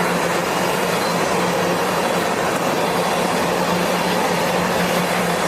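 A freight train rolling by: a steady, even noise of wheels on rail with a constant low hum underneath, unchanging throughout.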